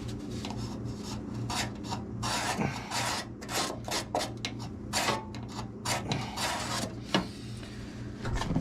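A hand tool working a small piece of sheet steel: an irregular series of short rasping strokes, over a steady low hum.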